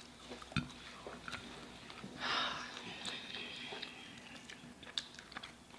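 Faint eating sounds: chewing with scattered small clicks, and a brief louder noise about two seconds in.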